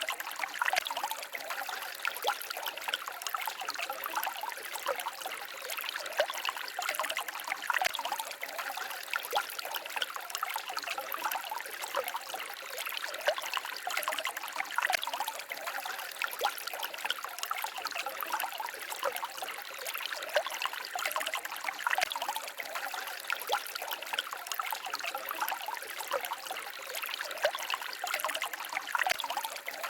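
Small stream babbling and trickling over stones, a steady rush of water dotted with many small quick splashes.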